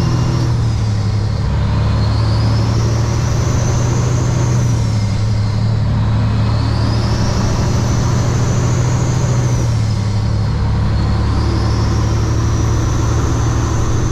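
Semi truck's diesel engine running steadily on the road, heard from the driver's seat over road noise, with a faint high whine that rises and falls three times.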